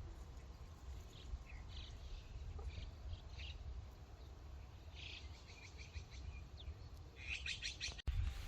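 Small birds chirping in short, scattered calls, with a quick run of repeated chirps near the end, over a low outdoor rumble.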